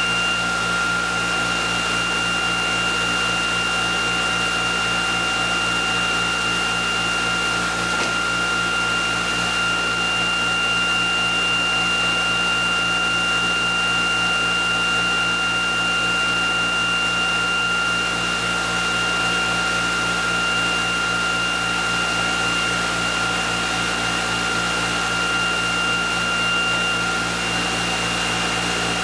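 Electric motor-generator test rig, a prime-mover motor spinning a ReGenX generator at a few thousand RPM, running at steady speed with an even mechanical hum and a high whine. One of the whine's tones fades out near the end.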